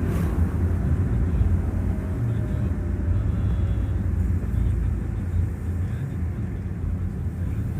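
Steady low rumble of a vehicle travelling along a road, engine and road noise mixed with wind.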